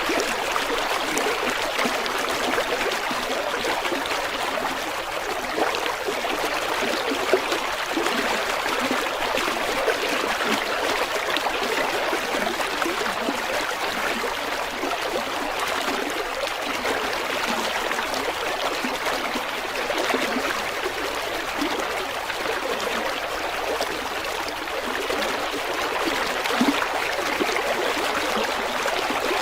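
A river flowing over stones: a steady rushing babble with small splashes and trickles scattered through it.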